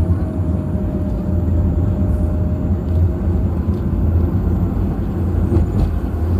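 Steady low rumble of a vehicle on the move: engine and road noise, with a faint steady tone through the first half.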